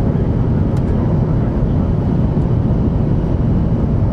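Interior running noise of a 500 Series Shinkansen train: a steady low rumble of wheels on rail, heard from inside the passenger cabin.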